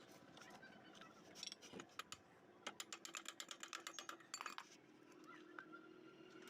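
Faint light metallic clicking and tapping from small motorcycle suspension bushes being handled and set into place, with a quick run of rapid ticks about three seconds in.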